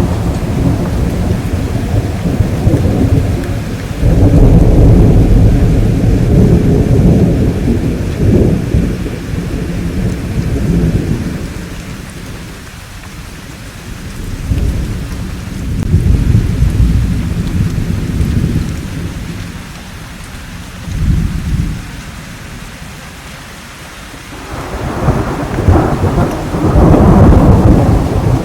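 Thunderstorm: steady rain under repeated rolling thunder. A loud clap about four seconds in rumbles on for several seconds. Further rumbles come and go, and another swells near the end.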